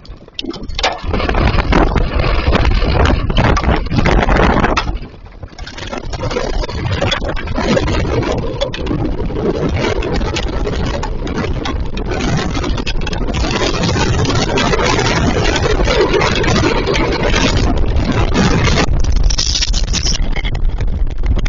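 Heavy hail coming down hard: a dense, loud clatter of countless impacts over a low rumble. It slackens briefly about five seconds in, then builds back.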